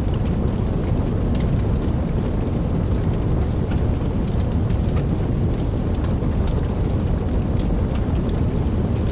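Campfire burning: a steady low rumble of flames with scattered soft crackles and pops.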